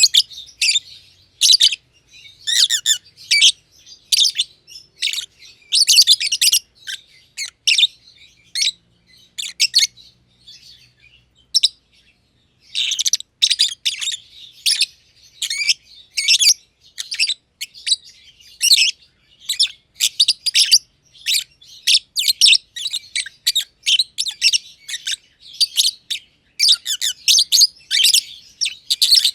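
Masked lovebirds chirping in quick, shrill runs of high-pitched chirps, with a brief pause a little before the middle, after which the chirping comes thicker and faster.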